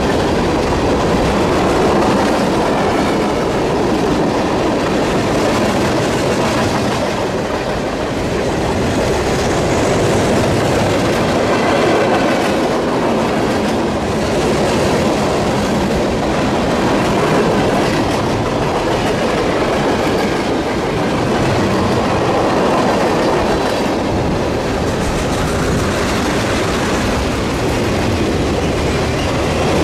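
CSX freight train's cars rolling past at speed: loud, steady noise of steel wheels running on the rails, with no locomotive or horn.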